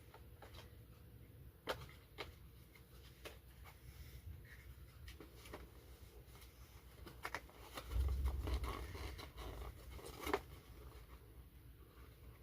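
Light clicks and taps from a boxed collectible model locomotive and its plastic packaging being handled, with a low rumbling bump about eight seconds in and a sharper click about two seconds later.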